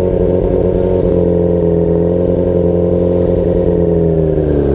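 Motorcycle engine running at idle revs with no throttle while the clutch is slowly let out; its pitch sags slightly near the end as the clutch takes up the load.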